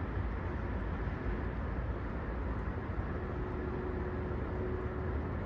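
Steady outdoor background rumble and hiss, heaviest in the low end, with a faint steady hum in the second half.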